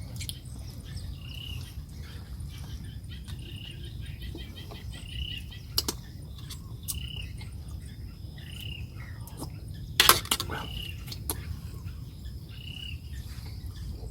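A short, high chirping animal call repeating about every two seconds over a steady low rumble, with a few sharp clicks; the loudest is a quick cluster of clicks about ten seconds in.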